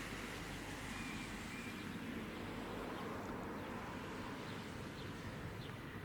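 Steady low rumble of an approaching narrow-gauge train, with a few faint bird chirps over it.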